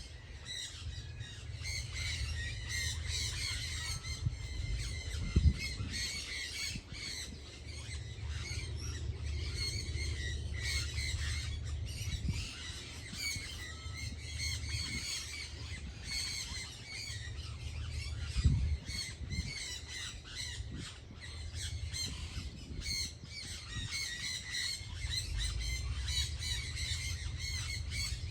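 A dense chorus of many birds calling at once, short calls overlapping throughout, over a steady low rumble, with two brief thumps, about five and eighteen seconds in.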